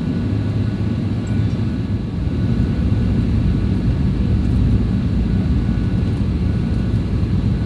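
Steady cabin noise inside a Boeing 737-800 in flight: a low rumble of the CFM56 jet engines and airflow with a faint steady whine above it. It grows a little louder about two seconds in.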